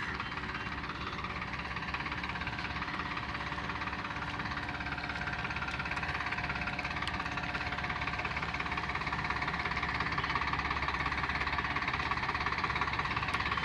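Farmtrac 60 PowerMaxx tractor's 55 hp diesel engine running steadily, growing gradually louder.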